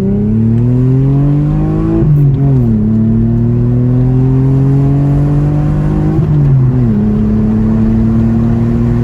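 1998 Mitsubishi 3000GT SL's V6 engine pulling under acceleration. Its pitch climbs steadily, drops sharply twice as it shifts up a gear, about two seconds in and again about six and a half seconds in, then holds at a steady cruise.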